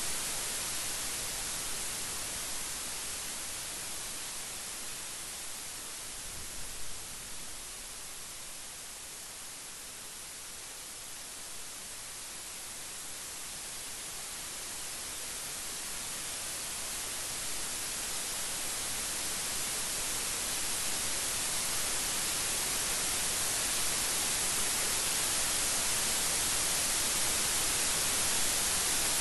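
Steady rain, an even hiss that eases off in the first third and then builds up again, loudest near the end.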